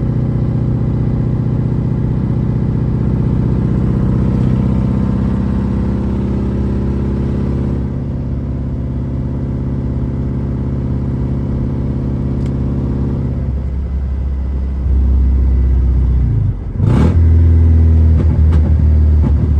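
BMW E36's straight-piped four-cylinder engine with a cheap aftermarket muffler, running loud under way with a steady exhaust drone. Near the end the drone turns deeper and heavier, briefly drops away, then comes back louder.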